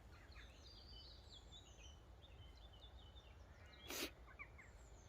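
Faint birdsong: a small bird's quick run of chirps and short trills, with a brief sharp knock about four seconds in.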